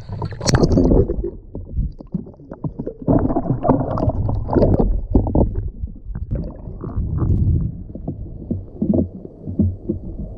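Uneven low rumbling and buffeting on the microphone aboard a small fishing boat at sea, with irregular louder surges.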